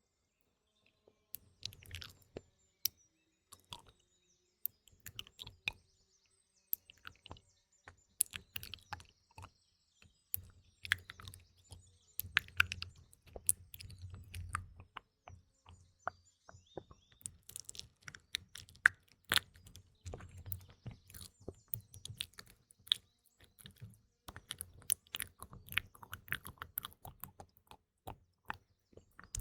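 Close-miked ASMR mouth sounds: irregular wet clicks and smacks of lips and tongue, coming thick and fast after a quiet first second or so. Faint birdsong is laid underneath.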